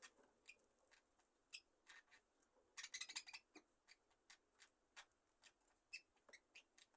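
Very faint, scattered small clicks and scratches from a roosting budgerigar flock, with a short flurry of them about three seconds in.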